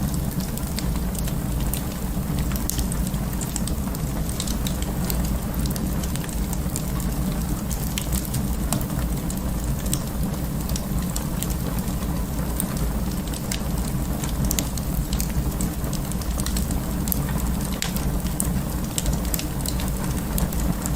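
Wood fire burning in an open fireplace: many small irregular crackles and pops over a steady low rumble.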